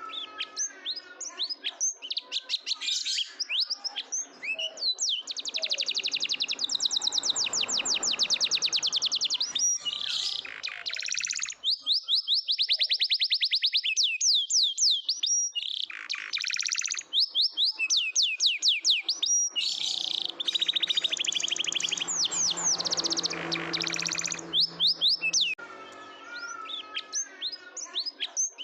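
Domestic canary singing a long, continuous song of fast rolling trills and chirped phrases, high-pitched, with short pauses between phrases and a brief lull about halfway through.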